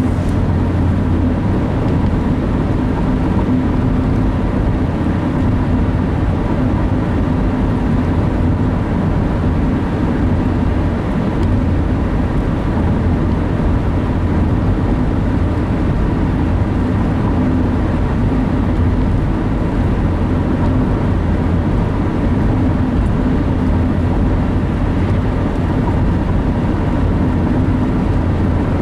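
Steady road and engine noise of a car driving at an even speed, heard from inside the car.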